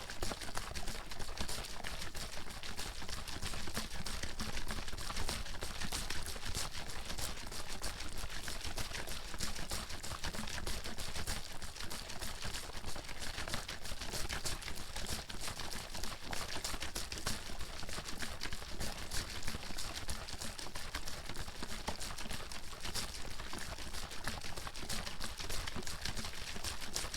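Water bottle being shaken continuously, the water sloshing and knocking inside in a fast, even clatter.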